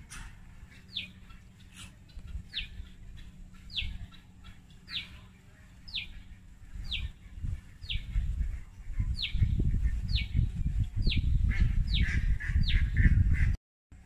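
A bird gives short high chirps, each sliding down in pitch, repeated about once a second. From about eight seconds in, a loud low rumble joins them, and the sound cuts off abruptly just before the end.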